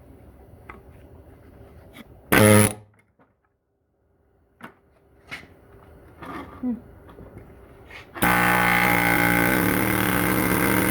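Power impact wrench on a transmission fastener: a short trigger burst a couple of seconds in, then a loud steady run of about three seconds near the end.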